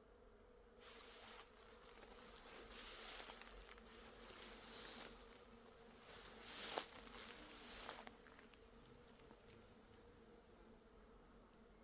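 Faint steady hum of bees working flowering black locust trees. From about a second in to past eight seconds, several swells of rustling noise come and go, with one short sharp click near seven seconds.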